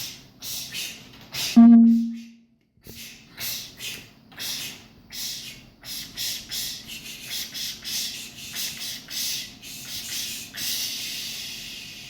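Short scratchy, hissing strokes from an experimental sound-drawing performance, coming faster and faster and ending in one longer hiss that fades away. About a second and a half in, a single loud low tone sounds briefly and dies away.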